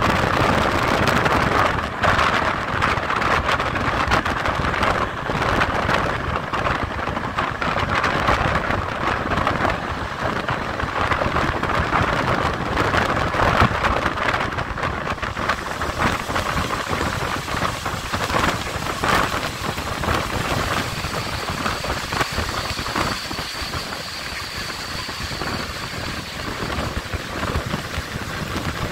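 Air rushing past the open window of a moving passenger train, with the clack of the wheels on the rails. A faint high whine sounds for several seconds in the second half.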